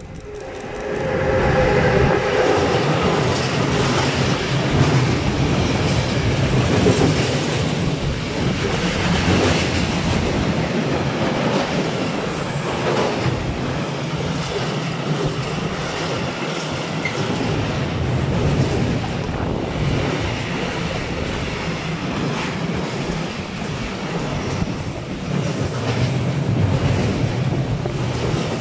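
An electric locomotive runs past close by, followed by a long freight train of container wagons. The sound rises quickly to a loud, steady rolling rumble in the first couple of seconds, with wheels clicking over the rail joints throughout.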